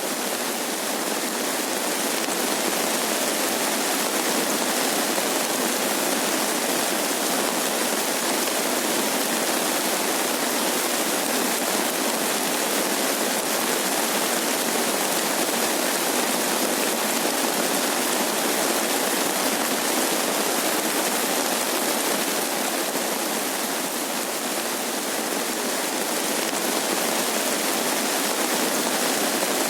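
Steady rain, an even hiss with no distinct drops or thunder.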